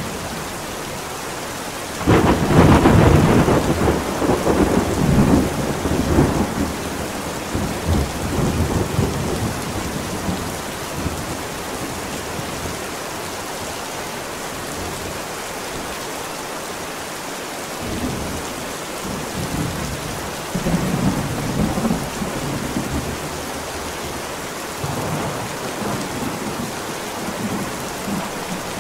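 Steady heavy rain with rolls of thunder: a loud thunderclap breaks about two seconds in and rumbles away over several seconds, and softer rumbles come and go later while the rain keeps falling.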